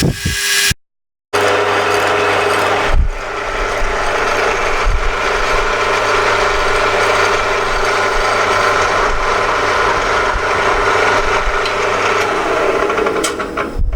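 A metalworking machine tool running steadily while it machines a steel part, a constant mechanical hum with a few held tones. It cuts off briefly about a second in.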